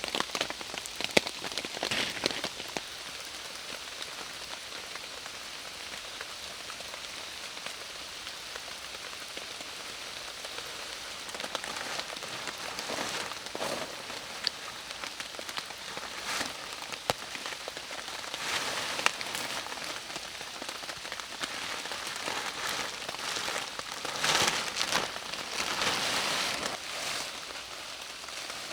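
Heavy rain falling steadily, with individual drops ticking sharply and a few louder spells.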